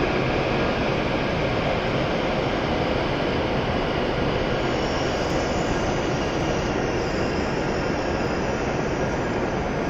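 W7 series Shinkansen train rolling slowly along the platform and drawing to a stop, a steady running noise of wheels and traction gear whose higher tones fade as it slows.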